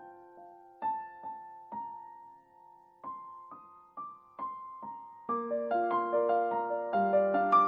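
Background piano music: a slow, sparse melody of single notes that thickens into fuller chords with a bass line about five seconds in.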